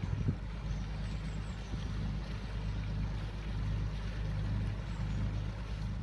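A steady, low engine drone with a short knock right at the start.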